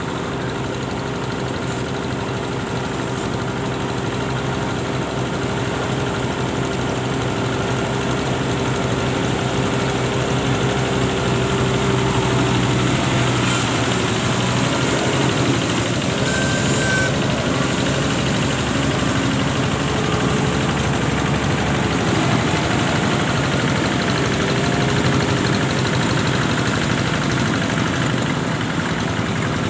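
An engine running steadily with a pitched hum. From about halfway through, its pitch dips and wavers as the load changes. A brief high note sounds once in the middle.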